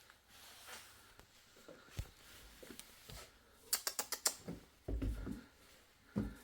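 A quick run of light clicks, then a few dull thumps near the end: a kitten's claws and paws on stair steps.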